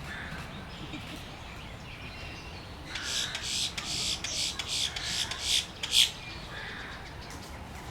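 Wood stork nestlings giving harsh, rasping begging calls in a rapid run of several calls, starting about three seconds in and ending with the loudest call near six seconds, over a steady low background rumble.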